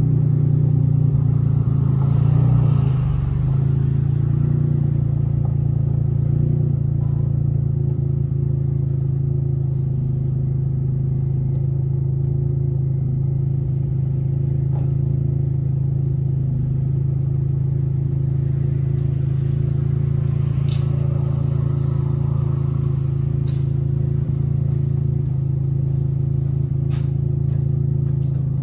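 1994 Dodge Stealth R/T's twin-turbo V6 idling steadily, with an exhaust leak that the owner calls horrible.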